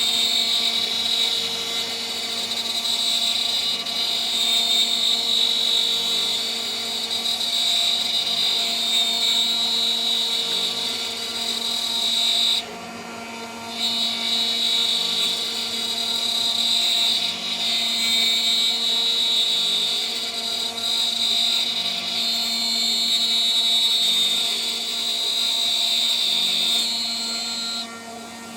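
CNC spindle turning a 3 mm three-flute end mill for aluminium at about 14,000 RPM while it mills: a steady spindle whine under a high, loud cutting screech. The cutting sound drops out for about a second halfway through and again just before the end, leaving the quieter spindle tone.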